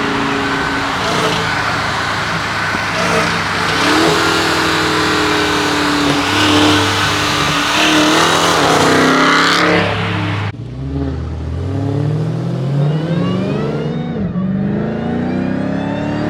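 Dodge Hellcat's supercharged V8 running hard with heavy road and exhaust noise. About ten seconds in the sound changes abruptly, and the engine note then climbs steadily as the car accelerates, dropping briefly as at a gear change before climbing again.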